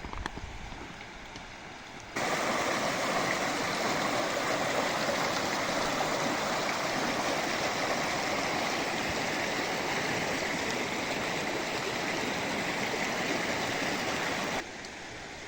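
Steady rush of flowing water, loud and even. It cuts in suddenly about two seconds in and cuts off shortly before the end.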